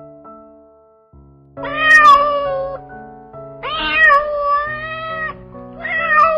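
Domestic cat meowing three times in long drawn-out meows, over soft piano music.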